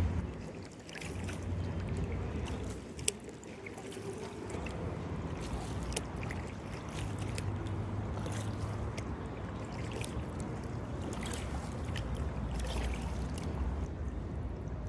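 Kayak paddling: the paddle blades dip and splash, water drips off them, and there are small sharp knocks, over a low steady rumble.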